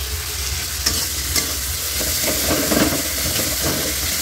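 Tomato and spice masala sizzling as it fries in a kadai, with a metal spatula scraping and knocking against the pan several times while it is stirred.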